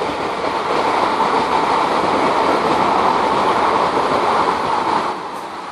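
A Southern electric multiple unit passing along the track below, its wheels and running gear making a steady rushing noise on the rails that swells in over the first second, holds loud, and eases off about five seconds in.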